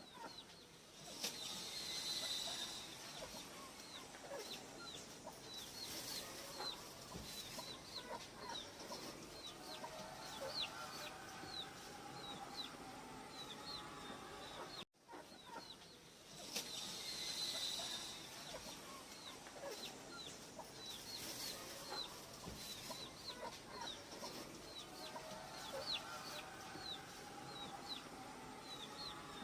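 Bird calls, a barn owl among them: many short high chirps and a harsher hissing call about two seconds in. The same passage then plays again from about halfway.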